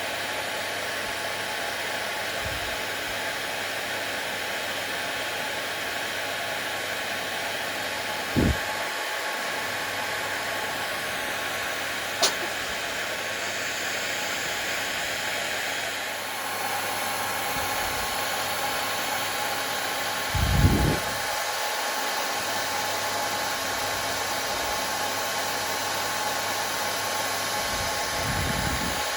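Hair dryer running steadily, a continuous blowing rush with a faint steady hum. It is broken by a few short, dull low thumps and one sharp click.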